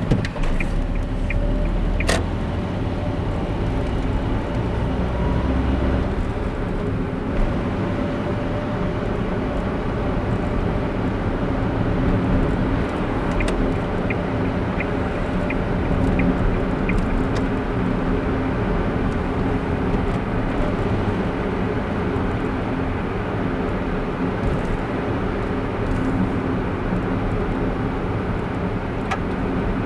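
Steady road and engine hum inside a moving car's cabin. A car's turn signal ticks about twice a second at the start and again for a few seconds in the middle, and there is one sharp click about two seconds in.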